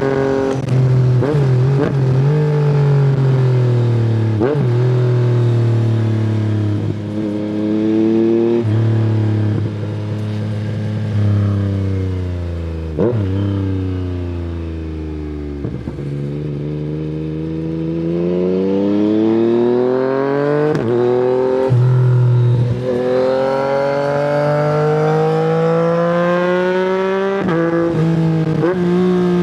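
Yamaha MT-09's inline-three engine through an Akrapovic exhaust, ridden on the road. The engine note falls for the first half as the bike slows, then climbs again as it accelerates, with short breaks at the gear changes.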